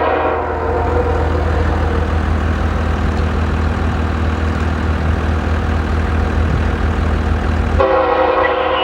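Union Pacific EMD SD70ACe diesel locomotive hauling a train: its air horn sounds a chord at first and dies away about two seconds in, leaving the steady low engine and rail rumble, then the horn sounds again near the end.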